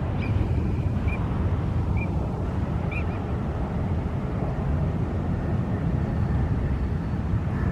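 Jet airliner's engines giving a steady low rumble as it passes the spotting spot, with faint short chirps about once a second above it.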